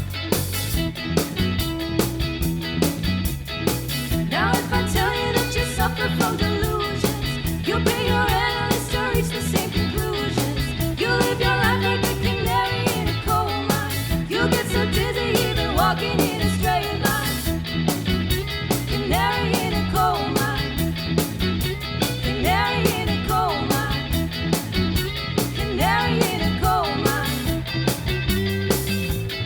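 Rock band playing an upbeat, ska-flavoured new-wave song: steady drums and bass with guitar, and a melody line coming in about four seconds in.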